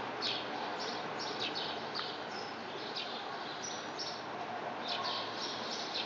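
Small songbirds chirping: many short, high chirps, several a second, over a steady background hiss.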